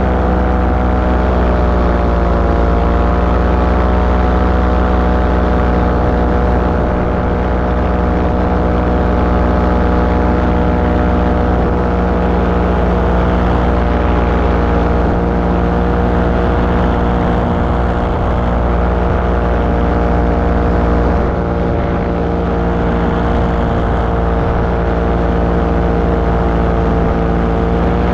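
Small aircraft engine and propeller running steadily in flight. The engine note sags slightly a couple of seconds in and shifts again near the end, as with small throttle changes.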